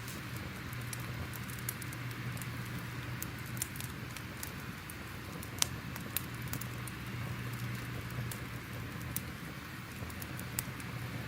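Crackling fire ambience: a steady hiss with irregular sharp pops and snaps, one louder pop about halfway through, over a steady low rumble.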